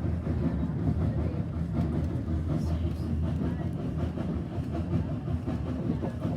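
Steam-hauled passenger train running along the track, a steady low rumble with faint rattles, heard from inside the carriage.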